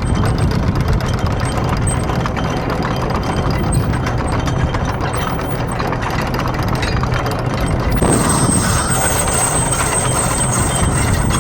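Boat engine running steadily with a low hum. About eight seconds in the sound brightens and a thin, high steady whine joins it.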